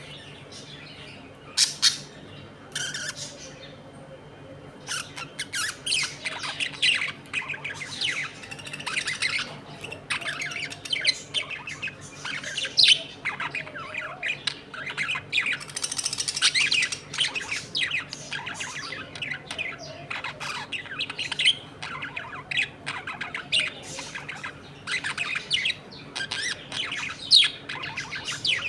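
A flock of budgerigars chattering and squawking: a few sharp calls in the first seconds, then a dense, continuous mix of chirps and warbles from about five seconds in.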